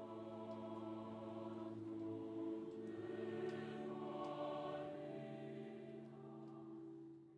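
A choir singing soft, slow, held chords that fade out near the end.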